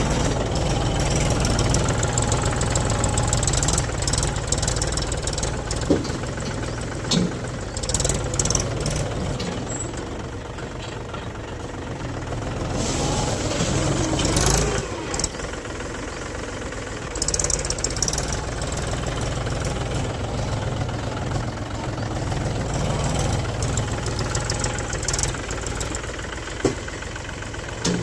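Mahindra tractor's diesel engine running during front-loader work in sand, its level rising and falling with the load. A few short knocks or clanks come through the engine sound.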